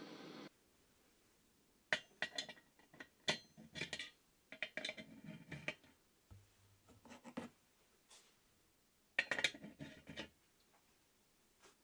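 Small metal parts of a brass paraffin camping stove clinking, tapping and scraping as they are handled, in two spells of quick knocks with a quiet gap between. A steady hiss cuts off about half a second in.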